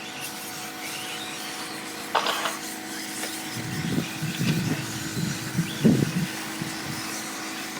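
Radio-controlled 4WD short course trucks racing on the track: a steady background hum from the cars, with a short louder burst about two seconds in and a run of low, irregular louder sounds about halfway through.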